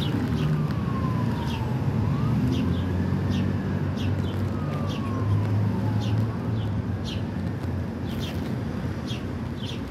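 A siren wailing in slow falling and rising sweeps, over a steady low traffic rumble, with short high bird chirps throughout.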